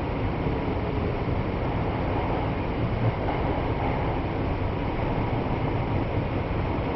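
Kyoto Municipal Subway Karasuma Line train running between stations in the tunnel, heard from inside the car: a steady rumble of wheels and running gear.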